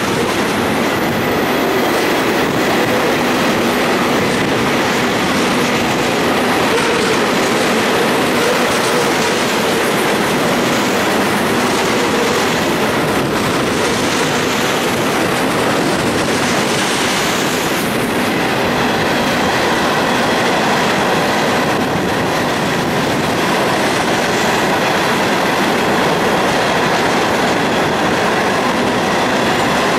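Florida East Coast freight train of tank cars and open hopper cars rolling steadily past across a trestle bridge: a continuous, even noise of steel wheels running on the rails.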